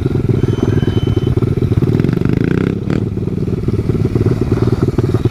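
Small single-cylinder pit bike engine running steadily under way. Its note shifts briefly about two to three seconds in, with a short click near three seconds.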